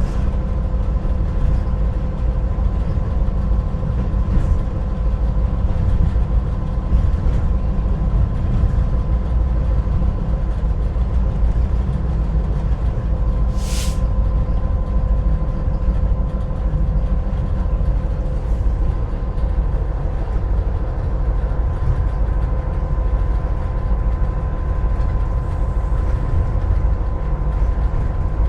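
Cab ride in an EMD GP38-2 diesel locomotive: its 16-cylinder two-stroke diesel engine and the train running steadily, a loud low rumble with a steady hum over it. A short hiss comes about 14 seconds in.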